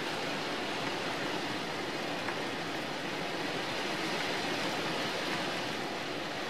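Wind-driven rain falling steadily on a tin roof, an even hiss without breaks.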